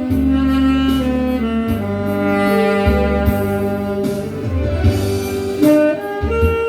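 Tenor saxophone playing a slow melody in long held notes, with a low accompaniment moving underneath.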